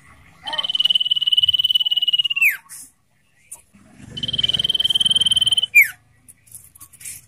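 Common iora calling: two long, high, trilled whistles, each held steady for a second and a half to two seconds and ending in a quick falling note, with a few short chips between and after them.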